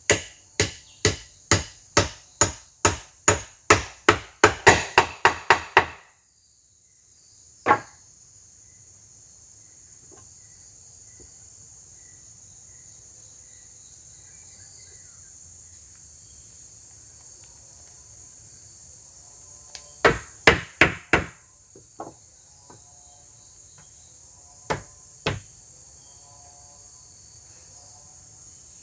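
Fast, even strikes of a blade chopping wood, about three a second, which stop at about six seconds. After that a steady high drone of forest insects, broken by a few more chops, a quick cluster of them about twenty seconds in.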